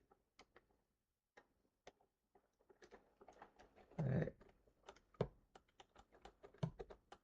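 Faint plastic clicks and taps from a vintage action figure being turned over and handled, sparse at first and busier after about three seconds, with a duller knock about four seconds in.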